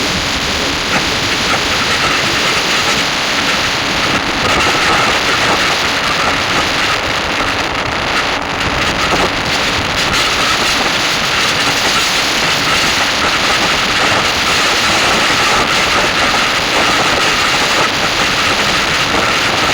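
Wind rushing over the microphone on a moving motorcycle, with the engine and road noise underneath, steady throughout.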